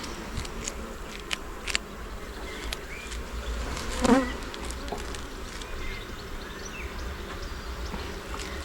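Honeybees buzzing in a steady hum around an open hive during an inspection, with a few light clicks. A brief, louder, wavering buzz comes about halfway through.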